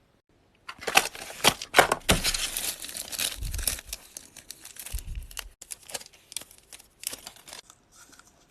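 Close crinkling and crackling handling noise, a dense run of sharp crackles that thins out after about five seconds and dies away near the end.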